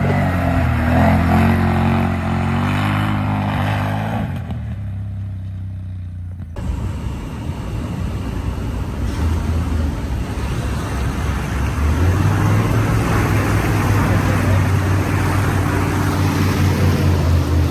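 Vehicle engine running and revving, its pitch shifting up and down, with a sudden change about six seconds in, and the engine running steadily again near the end.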